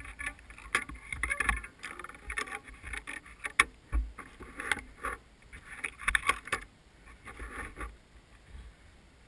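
Mountain bike rolling over rough gravel, heard through a handlebar-mounted GoPro in its case: irregular knocks, rattles and clicks with low rumbling wind buffets, dying down near the end.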